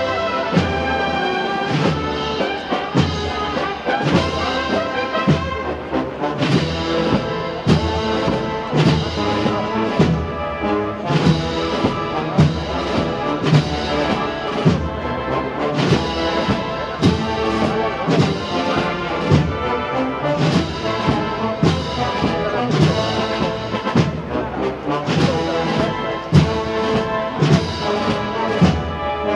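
A Spanish Holy Week wind band playing a slow processional march: brass and woodwinds carry the melody over a steady, regular drumbeat.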